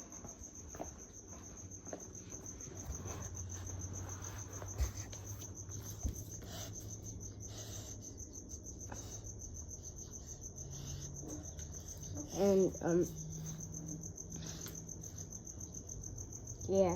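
An insect trilling without pause in a high, evenly pulsed tone, over a low hum.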